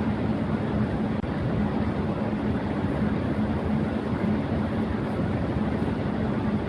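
Electric fan running at high speed: a steady rush of air with a constant low hum.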